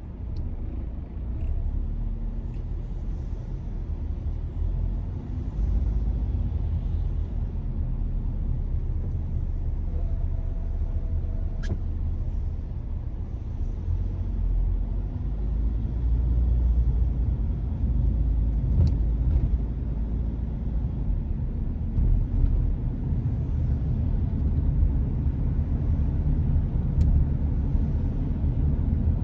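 A car driving: a steady low rumble of engine and road noise that swells a little now and then, with a few faint clicks.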